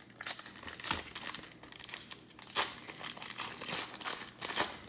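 A foil trading-card pack wrapper being torn open and crinkled by hand, in irregular crackling bursts that are loudest about a second in, midway through and near the end.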